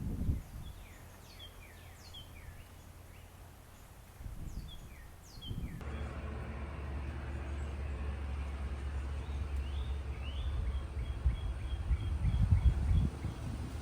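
Small birds chirping in quick, short calls. About six seconds in, a steady low rumble of wind on the microphone starts and runs under fainter, repeated chirps.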